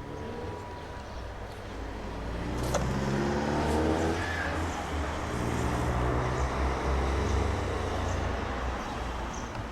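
A motor vehicle engine that rises in pitch as it speeds up about two and a half seconds in, then runs steadily and louder before easing off near the end.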